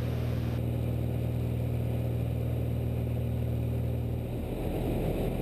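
Cessna 172's piston engine droning steadily in the cockpit, a low even hum; about four seconds in the drone turns rougher and less even.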